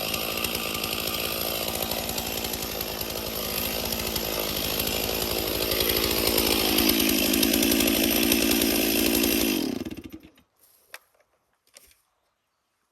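Chainsaw running while cutting up a fallen tree branch, getting louder about halfway through, then shut off a few seconds before the end, leaving a few faint knocks.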